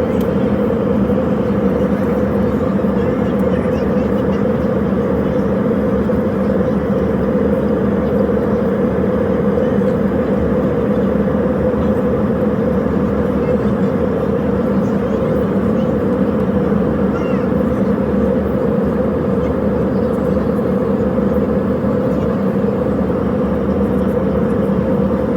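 Steady running noise of a vehicle, a constant drone with a low, even hum that does not rise or fall.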